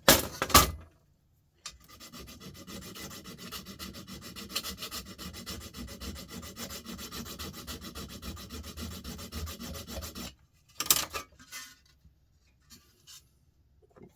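Steady rough scraping on a heavy metal part taken from a light fixture, lasting about eight seconds, with a clatter before it and a few knocks after it, as the part is tested to see what metal it is.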